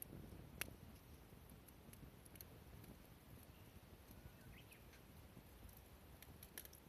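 Near silence, broken by a sharp click about half a second in, a few faint clicks near the end, and a brief faint chirp in the middle.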